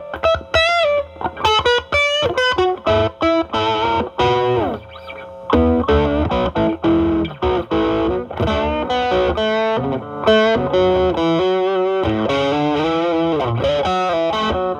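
Stratocaster with single-coil pickups played through a Ceriatone Centura Klon-clone overdrive into a Marshall Valvestate amp's drive channel: a busy run of lead lines with some pitch bends. The pedal's gain is near maximum, with the guitar's volume rolled back to clean up the drive.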